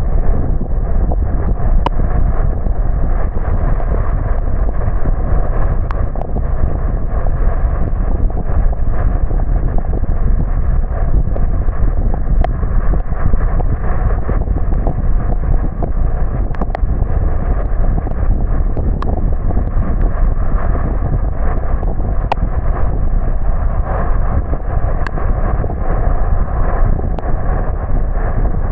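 Steady low rumble of a car driving on a wet road: tyre and road noise, with faint sharp ticks scattered through it.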